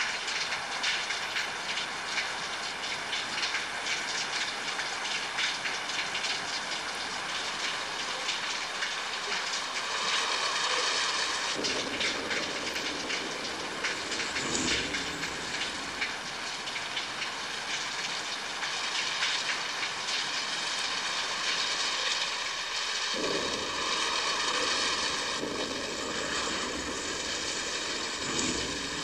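Steady rain, a dense patter of drops over a continuous hiss.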